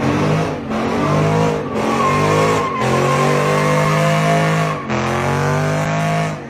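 V8 car engine held at high revs while drifting, with tires squealing. The engine note holds steady and dips briefly several times.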